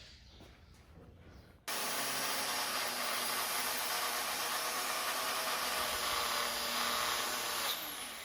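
Power tool driving a wire brush against the cast-iron engine block, scouring off stuck head-gasket residue. It starts suddenly about a second and a half in, runs steadily under load, and winds down near the end.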